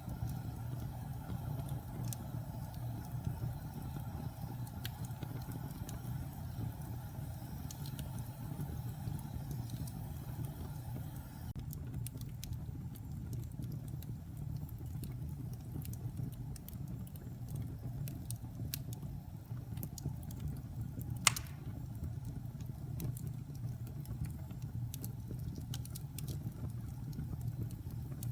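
Wood fire burning in a fireplace: a steady low rumble of the flames with scattered small crackles, and one sharp, loud pop about three-quarters of the way through.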